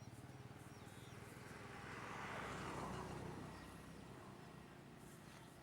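Vehicle engine running steadily at low revs, with a rushing noise that swells and fades, loudest about two and a half seconds in, like a vehicle passing. Faint bird chirps near the start.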